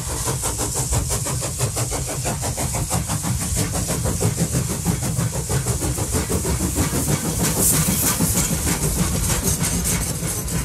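A train running with a fast, steady rhythmic beat and a hiss over it.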